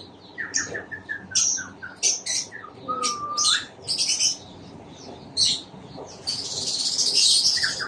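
Small birds chirping and tweeting: many short high chirps, a run of quick falling notes, one whistled note that rises at its end about three seconds in, and a dense high chattering near the end.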